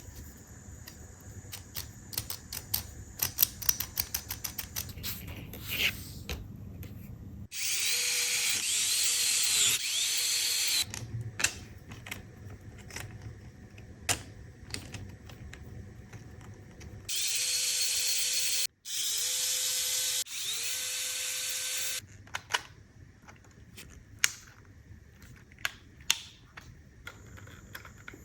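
Small electric power tool, drill-like, running in several bursts of one to three seconds, its pitch rising as it spins up at each start. Scattered clicks and light taps come between the runs.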